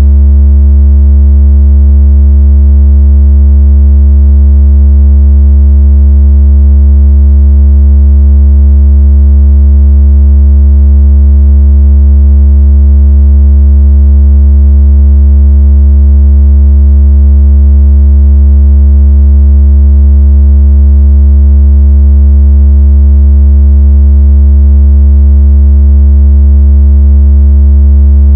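A loud, steady, deep electronic tone that holds unchanged, with faint higher overtones. It is a water-ejection vibration tone, played through a speaker to shake water out of it.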